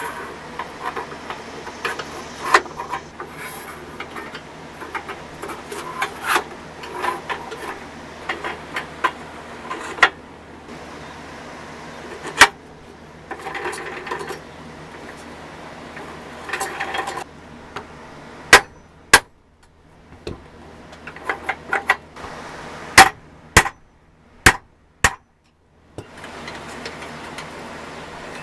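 Workshop handling sounds: tools and parts clicking, tapping and knocking, an irregular run of sharp taps with several loud single clicks in the second half.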